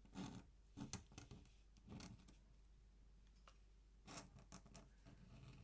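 Faint scratching of an ink pen drawing on paper: short strokes a few at a time, with pauses between.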